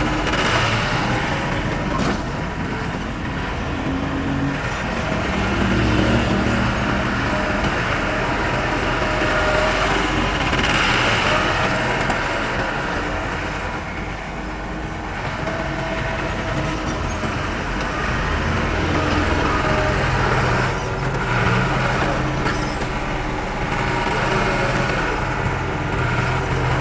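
Diesel engines of heavy earthmoving machinery running steadily, their pitch rising and falling from time to time as the machines work.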